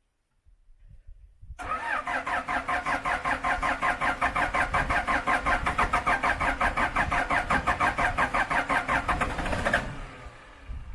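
Case 580C backhoe's engine cranking on its starter, a fast, even chugging of about five beats a second. It starts about a second and a half in, runs for about eight seconds and stops near the end without the engine catching. This is the first start attempt after the machine sat all winter with its battery just reconnected.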